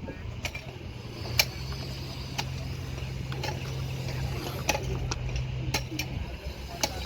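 Excavator engine running with a steady low drone, with a dozen or so sharp clicks and knocks scattered over it.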